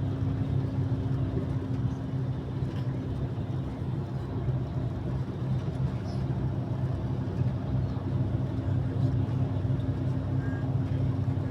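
An engine running steadily, a low even drone that holds the same pitch throughout.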